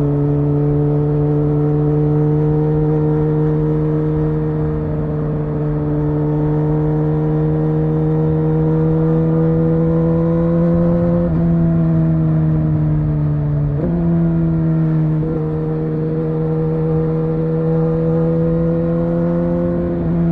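Suzuki GSX-R1000R's inline-four engine pulling under way at steady revs, its pitch slowly creeping up, with two brief breaks in the note just past the middle where the pitch jumps and then settles and climbs again.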